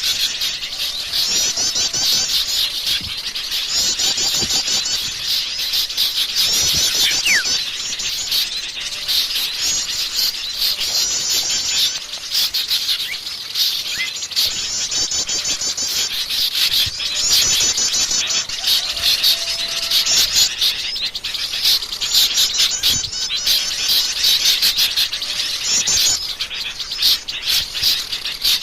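Noisy chorus of small songbirds chattering and trilling in rapid, high-pitched bursts that recur about every two seconds, with one short falling whistle partway through. It is a bird-lure (pikat) recording meant to draw in many kinds of small birds.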